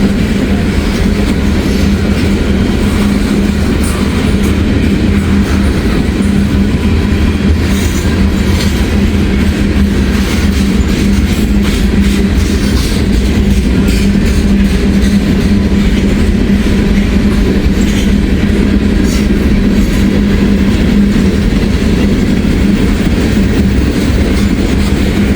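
Freight train of covered hopper cars rolling past close by: a loud, steady rumble of wheels on rail with a constant hum and scattered clicks from the wheels.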